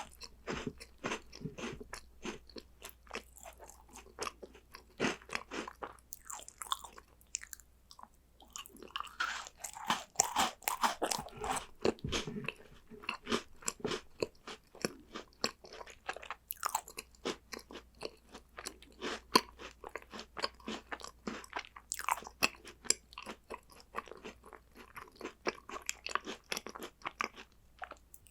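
Close-miked crunching and chewing of crisp chocolate snacks, a rapid run of sharp crackles with short pauses between bites.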